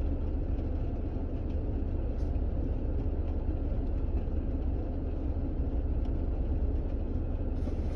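Steady low rumble of a car heard from inside the cabin, engine running.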